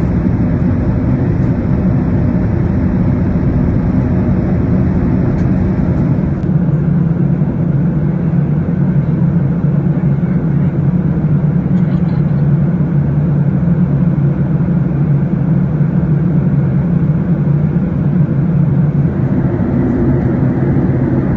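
Airbus A380 cabin noise in flight: a steady low rumble of engines and airflow heard from inside the passenger cabin. About six seconds in, the higher hiss thins and the low rumble grows stronger.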